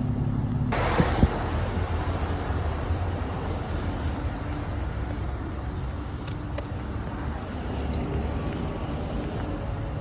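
An engine idling steadily at low revs, with a sharp knock about a second in.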